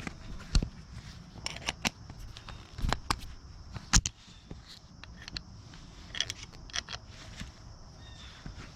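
A series of irregular clicks and knocks, like tools and parts being handled and set down, over a faint steady high hiss; the loudest knocks come about half a second in and about four seconds in. No grinder or power tool is running.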